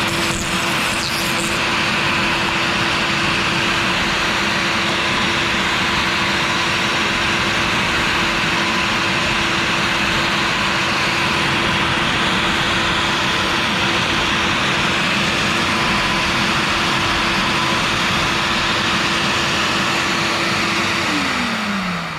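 CNC router spindle running at a steady high whine while a 1/4-inch O-flute bit cuts PVC. Near the end the spindle winds down with a falling pitch as the pass with that bit finishes.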